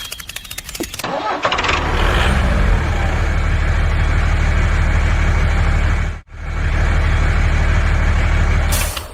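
An engine cranking with a rapid clicking for about a second, then catching and running steadily with a deep rumble. It cuts out abruptly about six seconds in, then resumes running.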